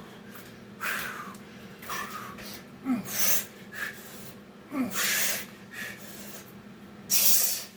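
A man breathing hard from exertion: loud, forceful exhales about every two seconds, with softer breaths in between, the loudest near the end.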